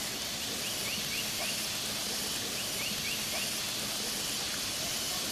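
Chicken satay sizzling on a charcoal grill, a steady hiss, with two short runs of quick, high bird chirps.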